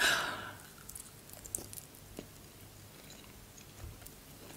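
Soft mouth sounds of someone biting and chewing churchkhela, a chewy candy of nuts coated in thickened grape juice. A noisy bite at the start fades within about a second, then there is only quiet chewing with a few faint clicks.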